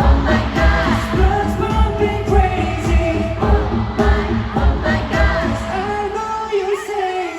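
Pop song with a sung melody over a heavy, regular bass beat; the bass drops away near the end.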